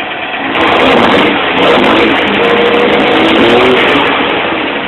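Cummins 12-valve 5.9 L turbo-diesel inline-six being revved: it rises about half a second in, holds high, and eases back down near the end, with the turbo spooling. The owner says one injector is not working, giving an injector knock and a loss of fuel at the top of the rev.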